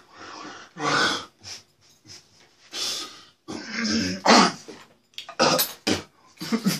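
Several short bursts of growling, breathy vocal sounds.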